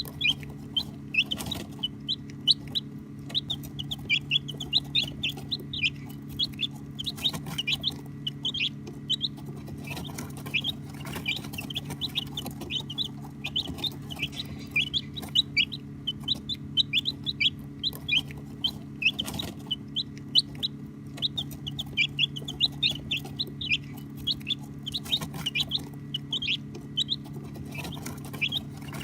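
A flock of baby chicks peeping continuously: many short, high, quickly falling chirps overlapping several times a second, over a steady low hum.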